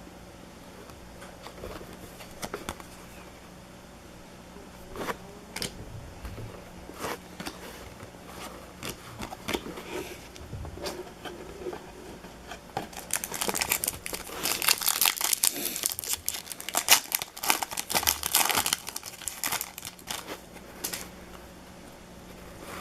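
Trading-card pack wrappers being torn open and crinkled by hand, with scattered rustles and clicks at first and a dense run of crinkling tearing past the middle.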